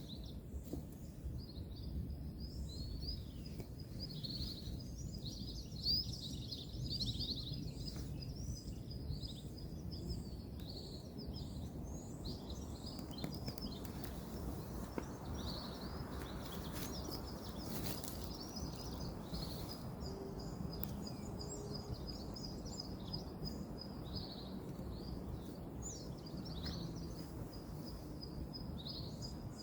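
Outdoor ambience of many small birds chirping over a steady low rumble of distant road traffic, with a thin steady high tone among the chirps. A few sharp clicks stand out, the loudest about six seconds in.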